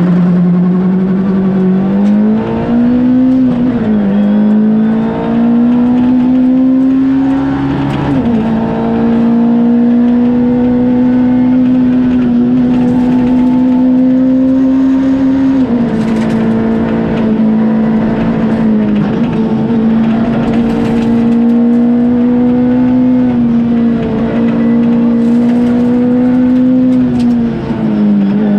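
Ford Fiesta R2 rally car's four-cylinder engine at high revs, heard from inside the cabin. Its pitch climbs and then drops sharply several times, with long stretches held at near-steady revs.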